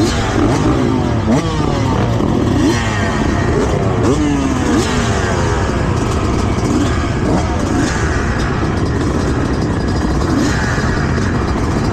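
Several motocross bikes revving hard together, their engine notes rising and falling over and over as the riders work the throttle and shift gears.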